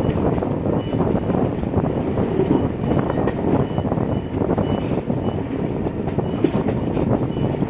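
Moving passenger train running on the rails: a steady rumble with many quick rattles and clicks from the wheels and carriages.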